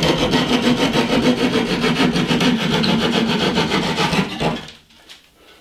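A saw cutting through half-inch drywall in quick back-and-forth strokes, stopping about four and a half seconds in.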